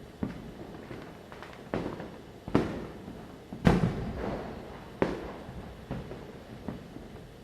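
Firecrackers going off during Diwali: a run of sharp bangs, about one a second, each trailing off in echo over a steady background rumble of more distant bursts. The loudest bang comes about halfway through.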